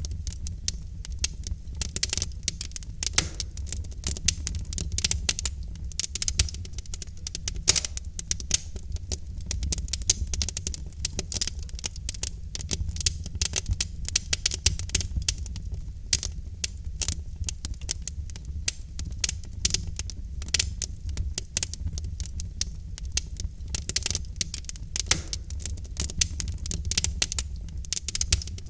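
Wood fire in a fireplace crackling: dense, irregular snaps and pops from burning logs over a steady low rumble of the flames.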